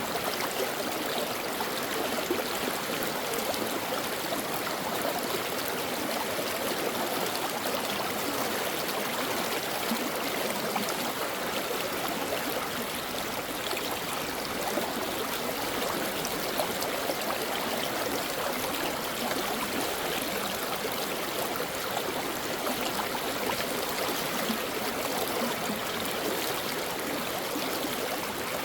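A stream of water flowing and babbling over rocks: a steady rushing, splashing sound that doesn't change.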